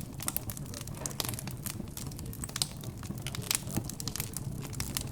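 Wood fire crackling in a fireplace, with many irregular sharp snaps and pops over a low steady hum.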